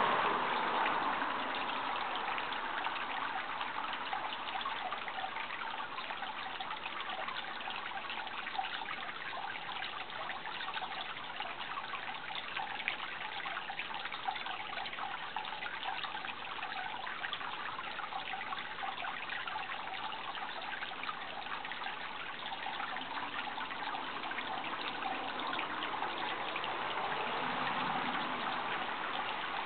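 Running water trickling and rushing steadily, like a small stream, with a few faint clicks.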